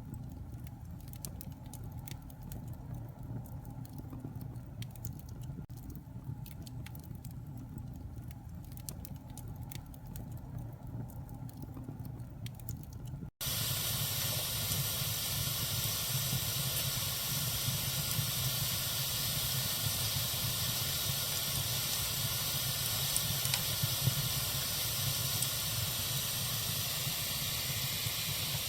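Bonfire burning with sparse sharp crackles over a low rumble. About halfway through, the sound cuts abruptly to a louder, steady hiss of the fire with the odd faint pop.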